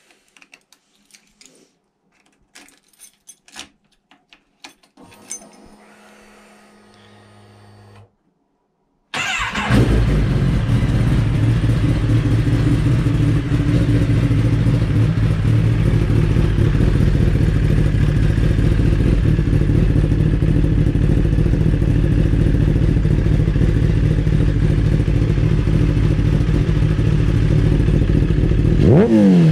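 Light clicking and a faint hum, then a brief gap of silence. About nine seconds in, a 2012 Kawasaki ZX-10R's inline-four comes in loud through an M4 Street Slayer exhaust and idles steadily for the rest.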